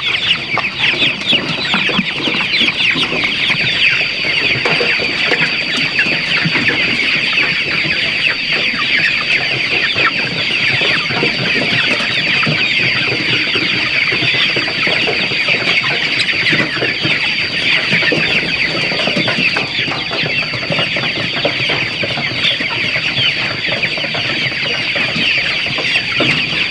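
A large flock of chickens calling all at once: a dense, continuous mass of overlapping high-pitched calls and clucks. A steady high-pitched whine runs underneath.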